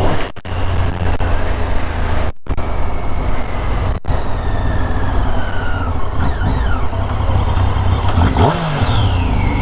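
Motorcycle riding on the road: steady engine running under a rush of wind noise, with a few slowly falling whines.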